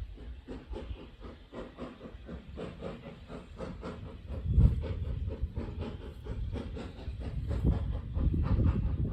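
A train on the heritage line running with a rapid rhythmic beat and a hiss over a low rumble. There is a louder burst about halfway through, and the sound grows louder toward the end as it comes closer.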